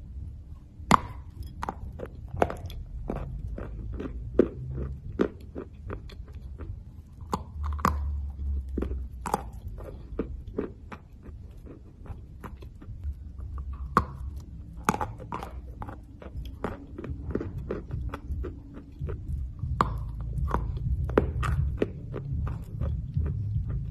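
Close-up biting and chewing of a chunk of roasted clay: sharp, irregular crunches as the dry lump breaks in the mouth, with continuous chewing between them.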